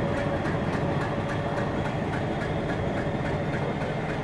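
Metre gauge passenger train rolling slowly, heard from inside the coach: a steady rumble with a regular light clicking, a few clicks a second.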